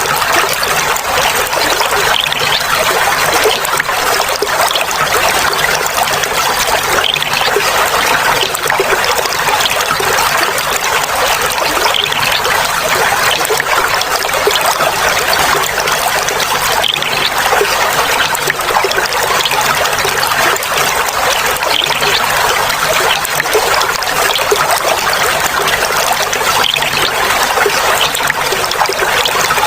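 Clear flowing water trickling and babbling steadily, an even rushing sound with no pauses.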